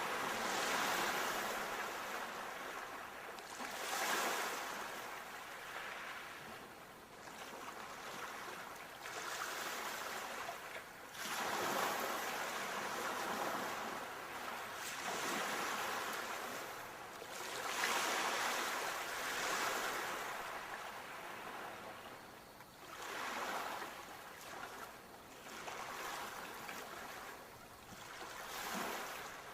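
Ocean waves breaking and washing up the shore, about seven surges that each swell and ebb over a few seconds.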